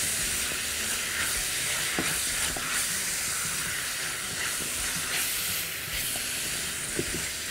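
Chopped liver, kidneys and hearts sizzling steadily in hot ghee in a wok as they are stirred, with a couple of faint knocks of the utensil against the pan.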